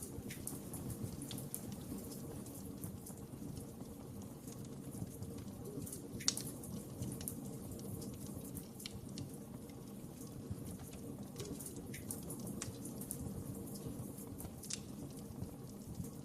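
Wood fire crackling: a steady low rush of flames with scattered pops and snaps, one sharper pop about six seconds in.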